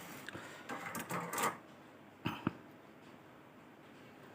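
Light scraping and handling noise of work on a circuit board's solder pads after the amplifier IC has been removed, followed by two sharp clicks of a tool a little over two seconds in.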